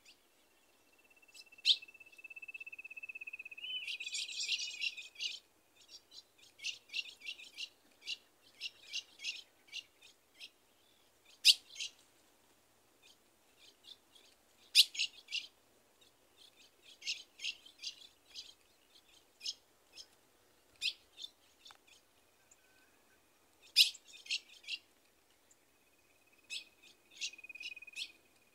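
Songbirds chirping and trilling in short repeated bursts, with a few sharp, loud single call notes. A steady high whistle-like tone runs under a dense trill in the first few seconds and returns faintly near the end.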